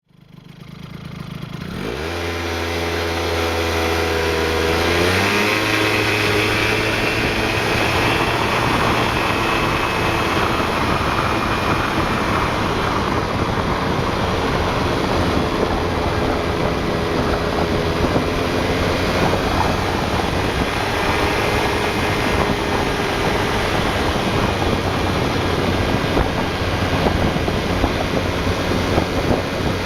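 Yamaha Grand Axis 100cc two-stroke scooter engine running: its pitch climbs in the first two seconds, steps up again about five seconds in, then holds as a rough, dense running sound. The owner reports a knocking noise from around the engine that appears when the throttle is eased to part-open from about 4,500 rpm.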